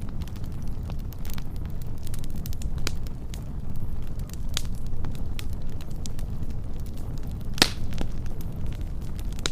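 Wood fire burning with a steady low rumble of flames and scattered sharp crackles and pops, one louder pop near the end.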